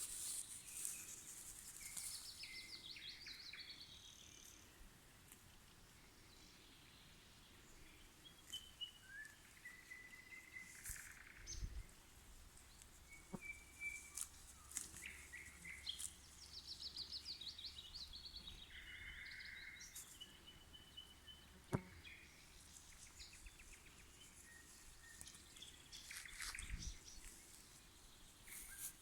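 Nightingale singing: separate phrases of rapid trills, clicks and short whistles with pauses between them, faint.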